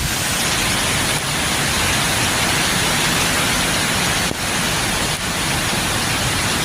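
Strong storm wind in a tornado's approach, a loud, steady rushing hiss.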